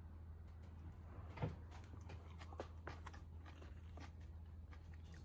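Faint eating sounds: chewing and small clicks of food and utensils, with one louder knock about a second and a half in, over a steady low hum.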